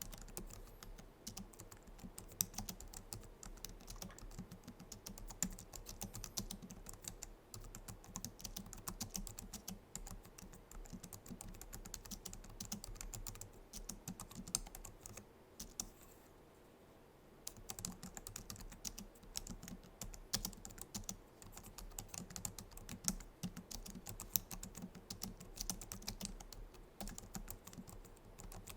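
Typing on a Logitech MX Keys keyboard's low-profile scissor-switch keys: a fast, continuous run of key clicks, pausing for about two seconds midway before the typing resumes.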